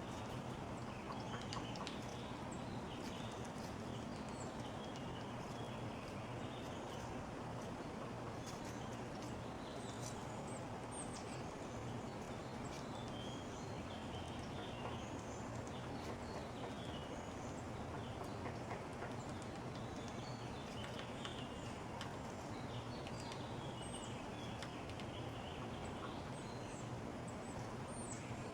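Small backyard songbirds giving short, high chips and calls, scattered throughout, with a few sharp clicks, over a steady background hiss.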